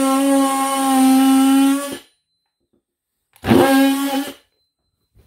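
Power saw with a new blade cutting in two bursts: a longer run of about two and a half seconds, then a short one of about a second. It is a steady, even-pitched buzz.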